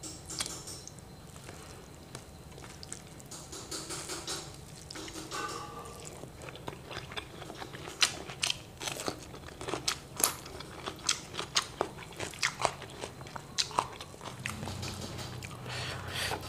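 Raw cucumber bitten and chewed with loud, crisp crunches, a quick run of sharp crunching from about halfway through that fades near the end.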